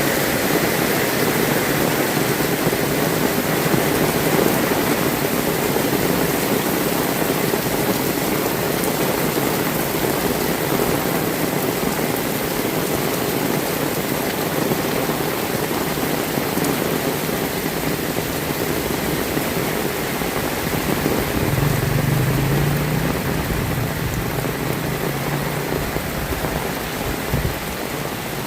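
Heavy rain falling steadily, an even hiss of rain on surfaces. About twenty-one seconds in, a low hum joins under the rain for a few seconds.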